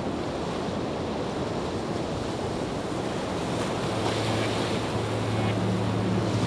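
Steady rushing of water, a dense even noise that grows slightly louder. A low steady tone, the start of background music, comes in about four seconds in.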